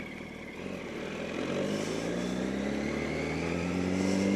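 Yamaha R1's inline-four engine accelerating, its pitch rising smoothly from about a second and a half in and then holding steady as it gets louder, over road and wind noise.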